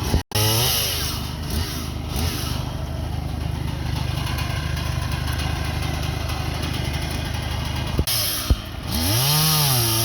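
Small petrol engine running steadily, with its pitch rising and falling as it is revved just after the start and again near the end.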